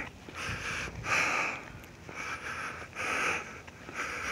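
A man sniffling and breathing through his nose: short noisy breaths, about one a second.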